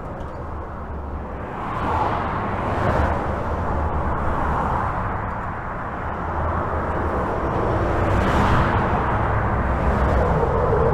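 Steady highway traffic heard from under a bridge: a continuous rumble of tyres and engines, with individual vehicles swelling past about two seconds in and again around eight seconds in.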